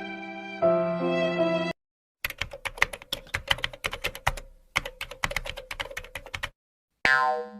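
A run of stock sound effects: a sad violin tune that cuts off abruptly after a couple of seconds, then rapid computer keyboard typing for about four seconds with a brief pause midway, and near the end the start of another effect with a sustained tone.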